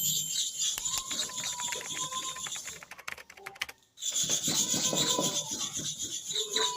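Hair clipper blade being rubbed back and forth on a sharpening surface to flatten and polish its inner face, a steady scraping. The scraping stops briefly about three seconds in, with a few light clicks, and starts again a second later.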